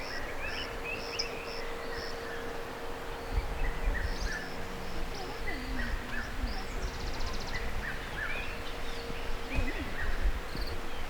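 Birds chirping and calling in short notes, with insects and a steady faint hum that stops near the end; a low rumble comes in about a third of the way through.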